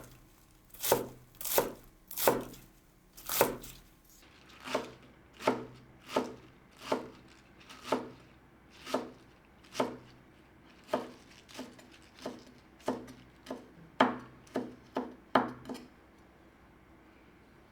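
Kitchen knife chopping on a cutting board: separate single cuts, about one to two a second, which stop near the end.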